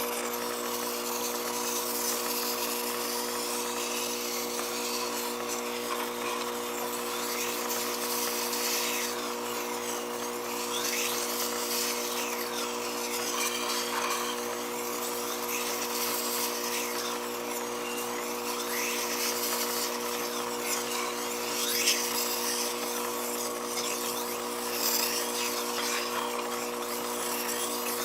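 Vertical water-cooled knife-sharpening machine (SDG-150H) running with a steady motor hum. Over it comes a rough scraping hiss that swells and fades every second or two, as a blade is worked against the turning wet grinding wheel.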